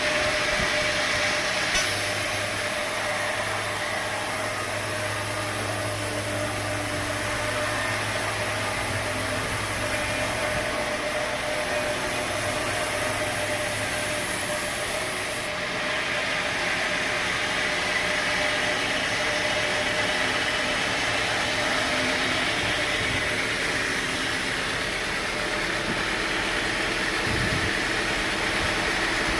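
Sawmill machinery running steadily, with a high hiss that starts about two seconds in and cuts off suddenly about halfway through.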